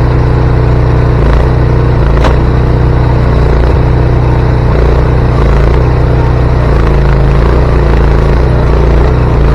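Engine running steadily at an even speed, with a single sharp click about two seconds in.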